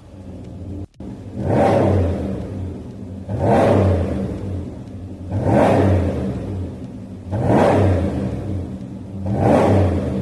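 Dodge Ram V8 with a full custom valved exhaust, revved five times about every two seconds, each rev rising and falling back to idle.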